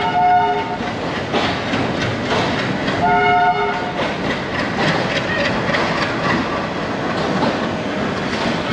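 Train, the Pune–Ahmedabad Duronto Express, running with a steady rumble and wheel clatter. Its locomotive horn ends a held blast about a second in and sounds again briefly about three seconds in.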